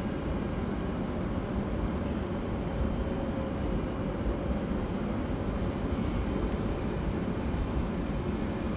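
Train running into the station: a steady rumble with a faint steady hum.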